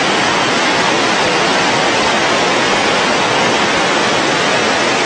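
Floodwater rushing in a steady, loud, even wash of noise with no pauses.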